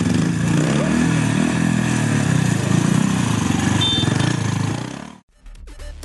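Small pit-bike engine revving, its pitch rising and falling, until the sound cuts off suddenly about five seconds in.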